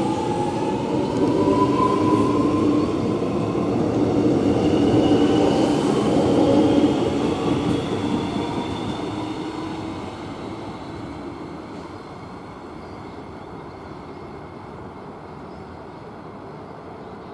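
X'Trapolis electric suburban train pulling away, its traction motors whining in several tones that rise slowly in pitch as it gathers speed. After about seven seconds the sound fades steadily as the train moves off into the distance.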